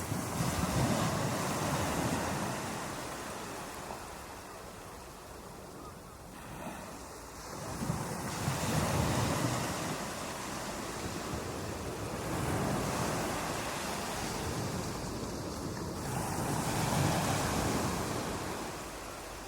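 Ocean waves breaking on a beach, each one swelling and then washing back. Three waves build to a peak, about eight seconds apart.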